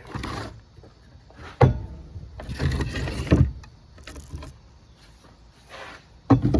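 Hands-on workshop handling of wood and screws: a sharp knock about a second and a half in, then scraping and rustling, and more knocks near the end.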